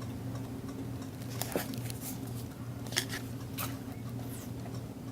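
A few light clicks and crinkles from small objects being handled, about one and a half, three and three and a half seconds in, over a steady low hum.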